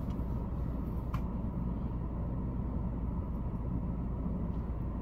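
Steady low rumble and hum inside a stationary car's cabin, the engine idling, with one faint click about a second in.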